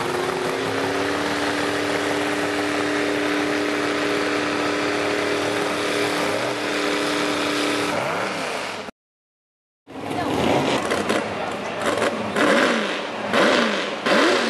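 Truck engine revving up and then held at a high, steady pitch for about eight seconds, as a truck does while pulling the weight sled. After a brief cut-out, an engine revs up and down over and over.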